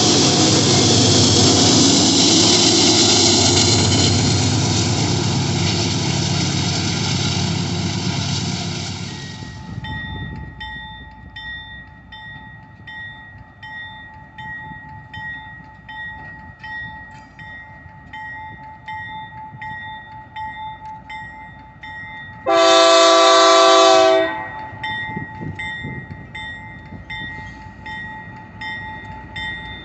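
A train running through a rail yard, a loud steady rumble that fades away about a third of the way in, leaving faint steady tones and light ticking. A locomotive air horn then gives one blast of about a second and a half, two-thirds of the way in.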